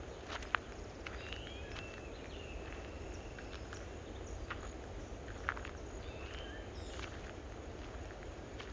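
Outdoor forest sound: footsteps and a steady low rumble, with a few short arched animal chirps now and then and a couple of sharp clicks.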